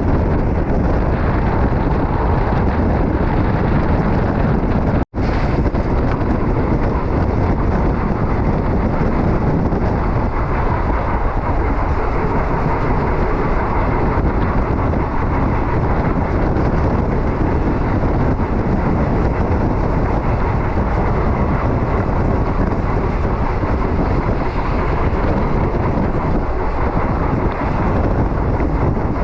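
Passenger train running along the track: a steady rumble and rush of wheels on rail, with a split-second break in the sound about five seconds in.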